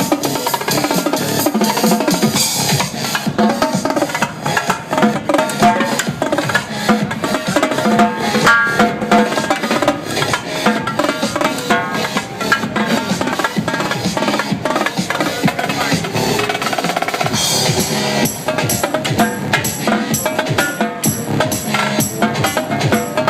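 Live drum-corps-style drumming on Mapex drums and cymbals, played as fast, dense strokes over an electronic dance track.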